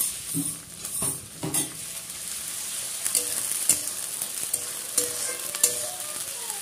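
Onions and ginger-garlic-onion paste sizzling in hot oil in a metal kadai, with a spatula scraping and knocking against the pan as it is stirred.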